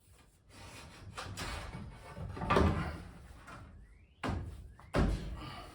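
Steel yoke scraping against the wooden ceiling joist as it is worked into a tight fit, then two sharp knocks about a second apart near the end, each followed by a brief rising squeak.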